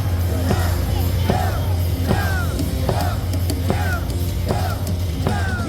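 Loud cheer music over a ballpark's speakers, a steady heavy bass with a repeating accent a little more than once a second, a cheering crowd behind it.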